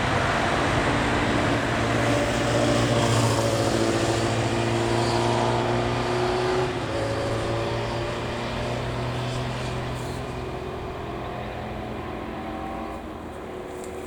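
Vintage truck engine running as it moves past, its pitch gliding up and down. It fades away over the second half.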